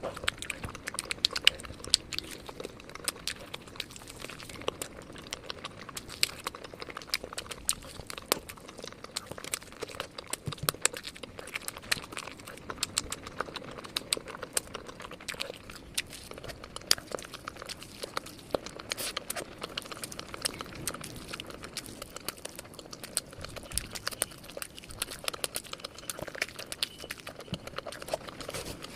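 Close-miked chewing and crunching of crispy fried peri peri chicken drumsticks: a constant stream of crackling crunches and mouth clicks.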